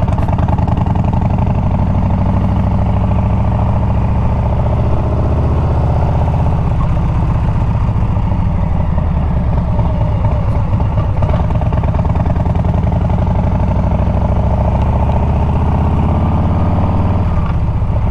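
Harley-Davidson Milwaukee-Eight 114 V-twin running through a Bassani exhaust. Its engine speed rises and falls gently while riding, then eases off just before the end.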